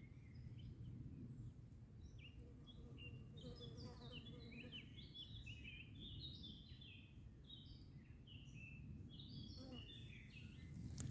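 Songbird singing in a forest: quick runs of short, chirping notes that come and go in bursts, over a faint steady low rumble.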